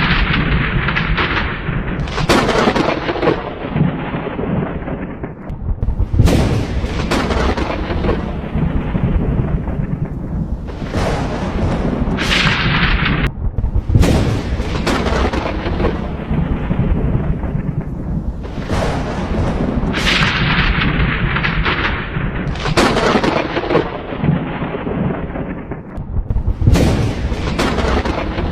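Thunderstorm: thunder claps every few seconds, each a sudden crack that fades into a long rumble, over a continuous low rumble and steady rain.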